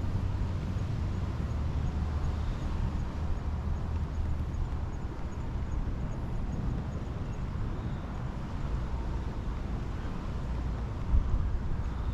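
Steady low rumbling seaside noise of wind and surf after a typhoon, with a brief thump about eleven seconds in.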